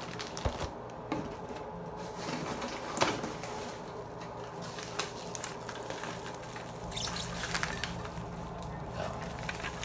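Unpacked water-heater accessories being handled: plastic packaging crinkling and small parts knocking, with a few sharp clicks and a denser stretch of crinkling near the end, over a steady low hum.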